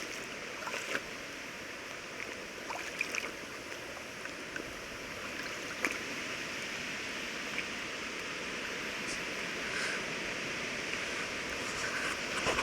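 Small stream running steadily, with a few faint clicks now and then.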